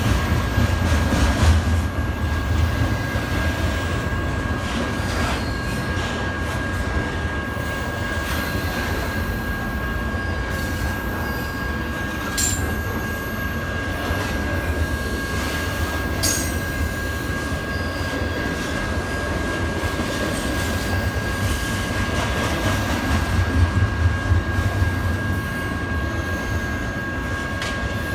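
Double-stack intermodal freight cars rolling past: a steady low rumble of steel wheels on rail with a constant high-pitched wheel squeal. Two sharp metallic clanks come about halfway through.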